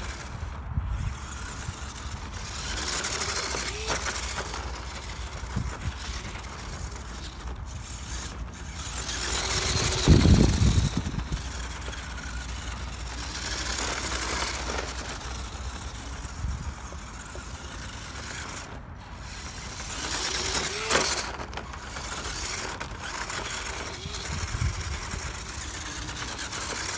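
Small electric RC off-road car driving over rough field dirt: its motor and tyres run in swells that rise and fade as it goes, with a louder low rumble about ten seconds in.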